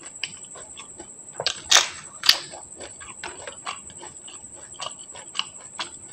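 Close-miked eating of pani puri: mouth-closed chewing of the crisp fried puri shells, a run of small crackling crunches, with two loud sharp cracks about two seconds in.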